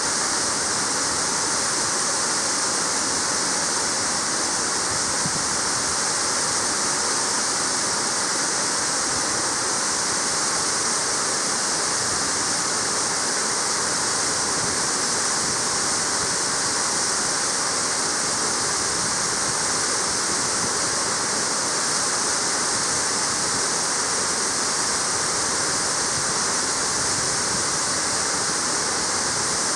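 Waterfall: water falling and splashing into a pool in a steady, unbroken rush, strongest in the high hiss.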